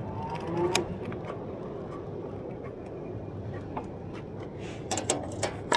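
A few light ticks and taps over a steady low background noise, the ticks clustered near the end.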